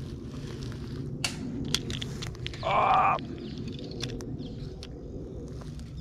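A single short, harsh caw-like bird call a little before halfway, over a steady low rumble, with a few light clicks as a spinning reel is handled.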